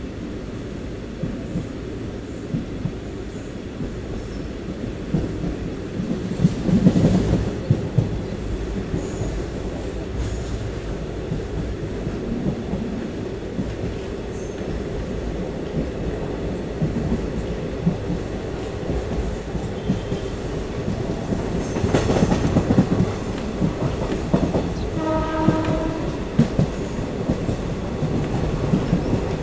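Passenger train running along the track: a steady rumble with the clickety-clack of wheels over rail joints. About 25 s in, the WAP-5 electric locomotive's horn sounds briefly.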